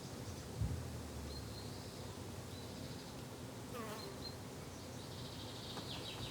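Summer garden ambience: a flying insect buzzing close by, with short high bird chirps scattered through. A brief low thump about half a second in.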